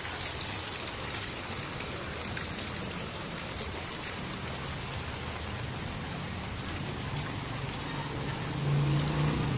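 Steady rain falling, an even hiss of drops, with a low steady hum underneath that grows louder near the end.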